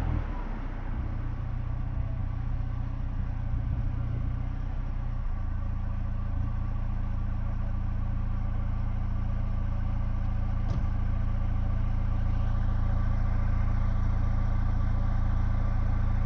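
Tuned BMW engine settling to a steady idle just after a rev dies away, with a single faint click about two-thirds of the way through.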